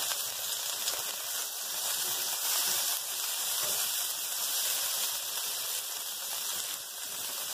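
Minced garlic and scallion segments sizzling steadily in hot oil in a wok, being sautéed to bring out their aroma.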